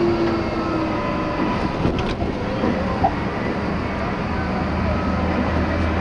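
A vehicle running steadily: an even engine and ride rumble with a low hum, and a couple of small knocks about two and three seconds in.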